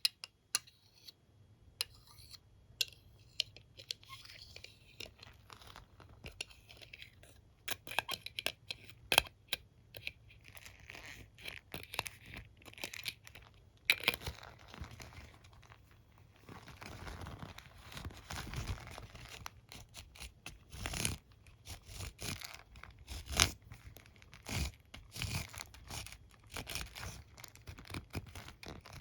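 Close-up handling of a hairbrush and comb: irregular taps and clicks on the bristles and teeth, mixed with scratchy brushing and rubbing.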